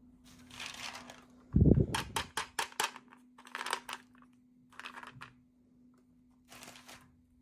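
Small plastic toy packaging and pieces being handled: short bursts of rustling, a thump, then a quick run of about six sharp clicks, and more rustling, over a faint steady hum.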